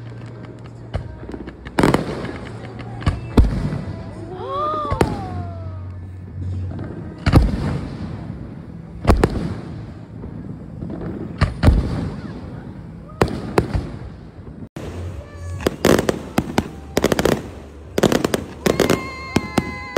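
Aerial fireworks shells bursting every second or two, each a sharp bang. In the last few seconds the bangs come thick and fast with crackling.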